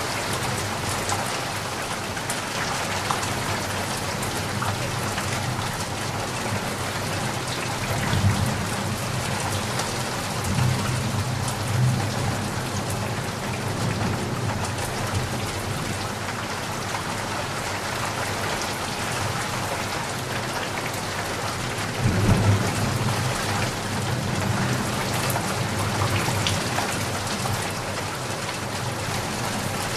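Steady heavy rain falling in an even hiss, with low rumbles swelling briefly about 8 seconds in, again a few seconds later, and most strongly around 22 seconds in.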